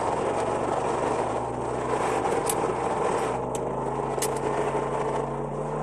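Dodge Viper's V10 engine running steadily as the car cruises through traffic, heard from inside the cabin, with a few light ticks around the middle.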